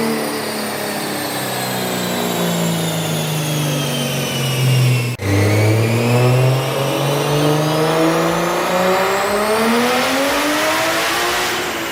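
Turbocharged BMW M52 inline-six winding down with falling pitch, then, after a cut about five seconds in, a full-throttle dyno pull with the engine note rising steadily for about six seconds and a growing hiss near the top.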